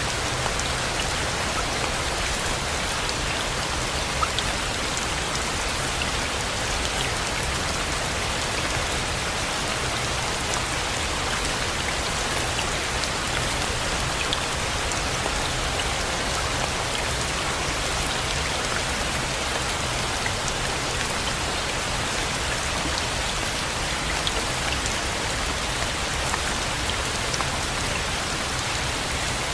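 Steady rain falling, with scattered drops ticking sharply through the even hiss.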